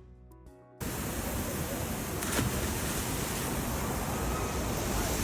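Waterfall rushing, a steady even roar of falling water that cuts in abruptly about a second in, after a moment of faint music.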